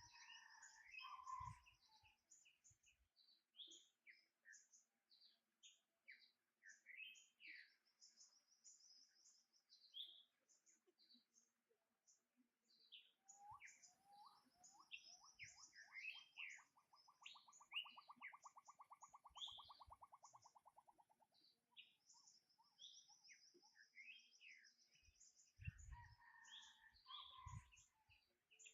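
Faint birdsong: many short chirps and tweets from several birds, with a rapid trill of evenly spaced pulses lasting about eight seconds from around the middle. A few soft low thumps near the start and again near the end.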